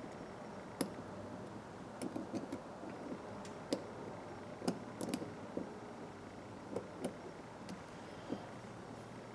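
Small metal clicks and taps, irregular and unevenly spaced, from the parts of a 1/4-inch Craftsman ratchet being handled and worked apart by hand, over a steady low hum.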